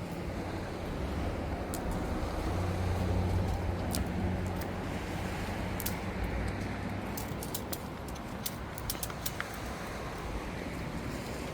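A motor vehicle's engine running steadily with road noise, swelling a few seconds in and then easing off. Light clicks and jingles are scattered through the second half.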